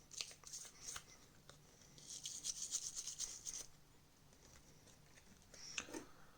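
Light clicks and a short rubbing, scratchy sound from handling the plastic parts of a disassembled TV remote, about two to three and a half seconds in.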